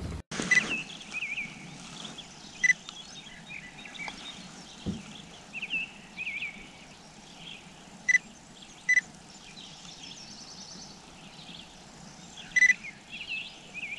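Birds chirping and calling: many quick curved chirps, with several short, sharp call notes standing out, over a faint steady outdoor background.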